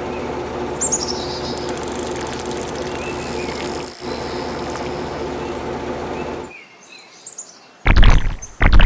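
A steady mechanical hum, like a small motor running, with birds chirping over it; the hum cuts off about two-thirds of the way through. Near the end come two loud, short thumps or bumps.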